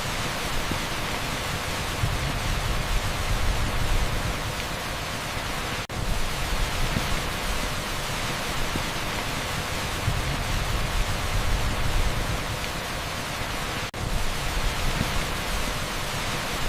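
Torrential rain pouring onto a street: a dense, steady hiss with a low rumble beneath it. It drops out for a split second twice, about eight seconds apart.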